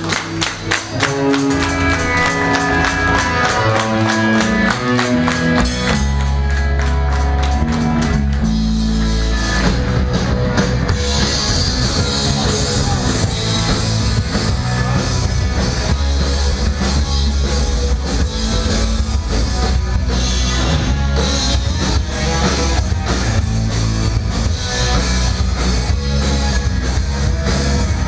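Live punk rock band playing the instrumental opening of a song: a guitar and bass riff over drums, with the full band coming in denser and brighter about ten seconds in.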